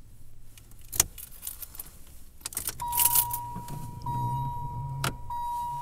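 Keys jangling at the ignition of a 1997 Chevrolet Monte Carlo LS, with a sharp click about a second in, then a steady dashboard warning chime. About four seconds in, a low hum sets in as the 3100 V6 is cranked for a cold start at −12 °C, with no block heater plugged in.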